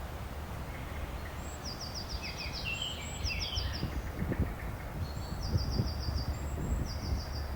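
A songbird singing: four short, high trills of rapid repeated notes, over a steady low background rumble.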